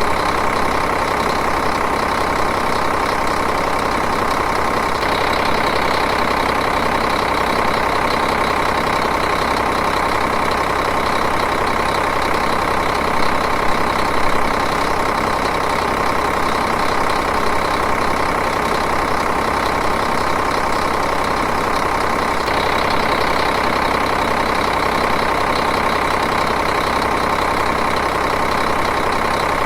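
Diesel engine idling steadily, an even running sound with a fine rapid rhythm.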